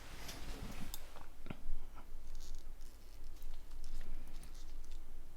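Light clicks and scratchy handling noises as the Nokia N91's small internal parts are fitted together during reassembly, with a sharper tick about a second and a half in.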